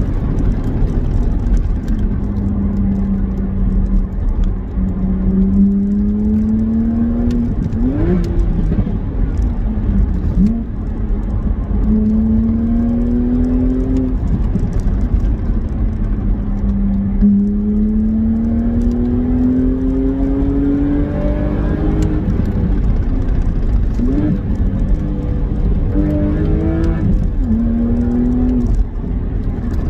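BMW Z4 3.0si's N52 straight-six, fitted with an aFe intake and a modified exhaust, accelerating: its note climbs for a few seconds, then drops at each gear change, several times over.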